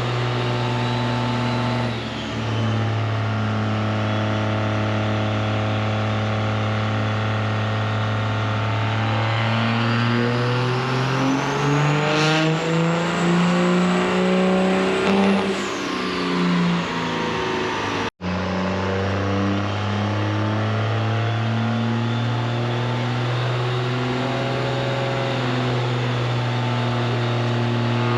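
A truck engine held at steady high revs, then climbing slowly in pitch for several seconds with a high whine rising alongside, before dropping back down. After a brief cut-out it settles again into a steady held rev.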